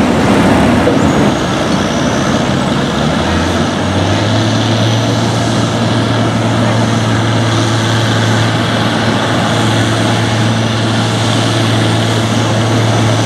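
Farm pulling tractor's engine running loud, its pitch rising about four seconds in and then holding steady at high revs.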